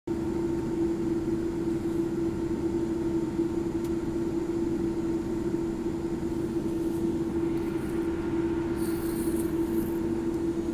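Steady drone of a Boeing 787 Dreamliner: a low rumble under one constant hum, with a brief hiss about nine seconds in.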